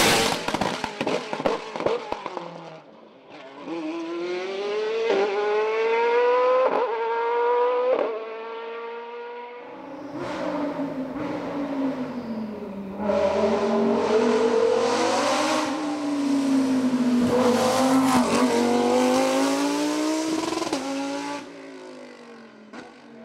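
Hillclimb race car engines at full attack. A car passes loudly at the start, then an engine revs up through the gears with quick upshifts every second or so. After that a lower-pitched engine note rises and falls as the car accelerates and lifts through corners, with occasional sharp cracks.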